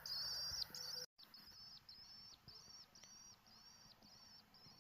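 Cricket chirping steadily in a regular series of high chirps, about two a second. About a second in, the sound drops out for a moment and comes back quieter.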